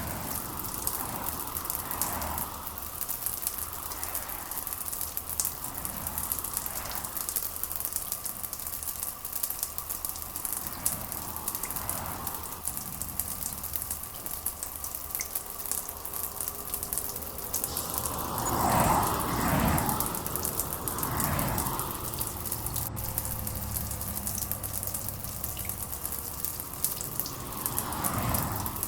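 Steady rain hiss with louder swells of gushing water every few seconds, the biggest cluster about two-thirds of the way through.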